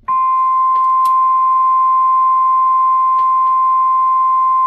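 Steady 1 kHz audio test tone that switches on sharply and holds at an even level. It is the tone fed in to modulate a President Washington CB base station on AM, to check its weak modulation.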